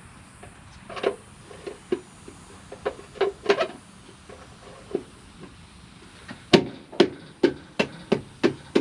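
A series of sharp knocks: scattered ones at first, then a steady run of about two a second from about two-thirds of the way through.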